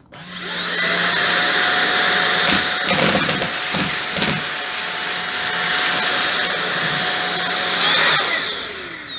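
Holife cordless stick vacuum's brushless motor spinning up to a steady high whine as it sucks up dry dog food, with some clattering of the kibble about three to four seconds in. Near the end the pitch jumps briefly, then falls as the motor spins down.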